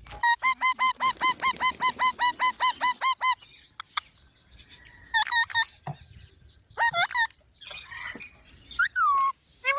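Pet green parrot calling: a fast run of harsh, repeated squawks, about five a second for three seconds, then a few separate calls, the last one falling in pitch.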